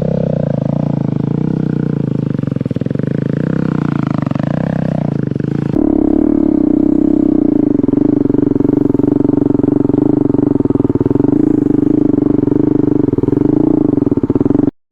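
KTM 250 Duke single-cylinder motorcycle engine held at high revs while the bike is ridden in a wheelie circle. The note wavers up and down for the first six seconds, then shifts abruptly to a steadier, louder note.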